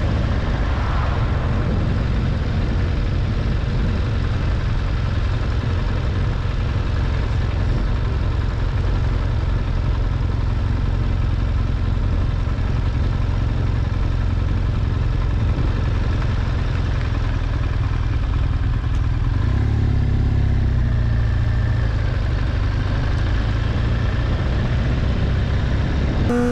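Motorcycle engine running steadily under a dense low rumble, with a slight change in its pitch about twenty seconds in.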